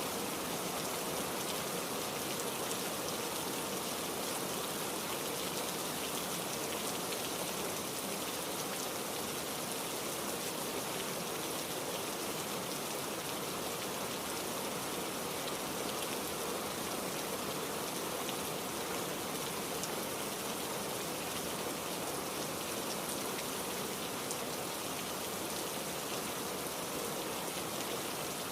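Heavy rain falling steadily: a dense, even hiss of many drops, with no thunder.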